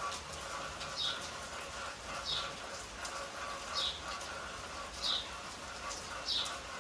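A bird repeating a short, high call that falls in pitch, about once every second and a half, over a steady background hiss.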